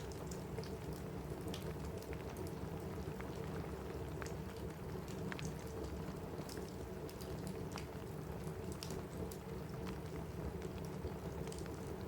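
Steady rain on a roof mixed with a crackling wood fire: a constant low rush with scattered sharp pops and crackles throughout.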